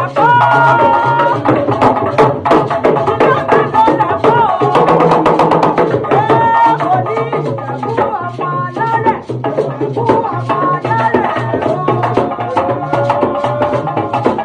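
Live band music: drums and percussion beating a steady rhythm over a repeating bass line, with melodic lines that bend in pitch.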